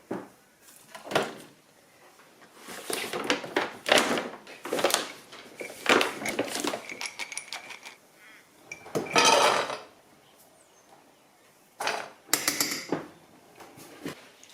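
Dry pet food (kibble) rattling as it is scooped and poured into a bowl, with clinks of the bowl, in a series of short clattery bursts. The longest and loudest pour comes about nine seconds in.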